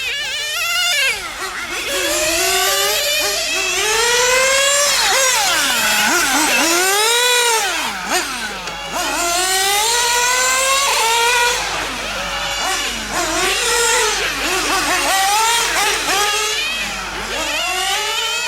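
Small nitro glow-fuel engines of 1/8-scale RC GT cars running on a track, the pitch rising and falling over and over as they accelerate and back off. At times two engines overlap at different pitches.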